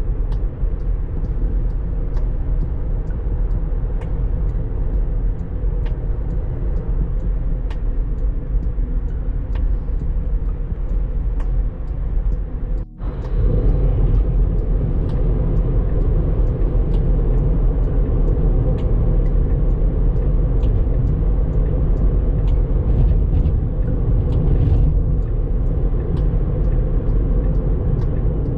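Steady low road and tyre rumble inside the cabin of a moving Tesla Model 3, an electric car with no engine sound, with faint scattered ticks. The sound drops out for a moment about 13 seconds in.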